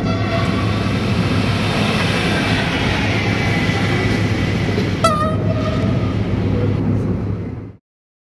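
Train running at speed, a steady rumble, with its horn sounding twice: one blast ending just as the sound begins, and another about five seconds in that dips in pitch and holds for over a second. The sound cuts off suddenly near the end.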